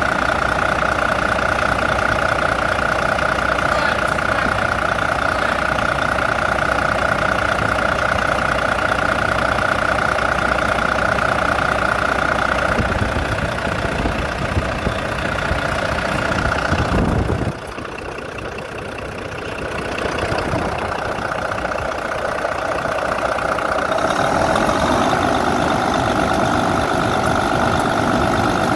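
Volvo FH13 truck's 13-litre inline-six diesel engine idling steadily after a cylinder-head and piston repair, with a steady whine over the engine note. About seventeen seconds in the sound drops and thins, then it builds back to full over the next few seconds.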